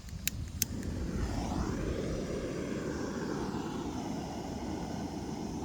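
Portable gas camping stove being lit: the igniter clicks three times, then the burner catches about a second in and burns with a steady rushing hiss.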